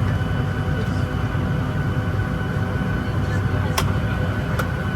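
Steady cabin hum of a Boeing 737-900ER on the ground, with several steady tones in it from the aircraft's air and ventilation systems. Two sharp clicks come near the end, a little under a second apart.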